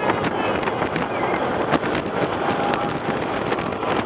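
Wind rushing over a head-worn camera microphone as a Millennium Force steel roller coaster train runs at speed, with the train's rumble and short clatters from the track.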